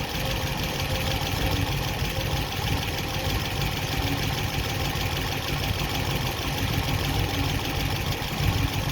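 1972 Chevrolet Camaro engine idling steadily, still cold, shortly after a cold start.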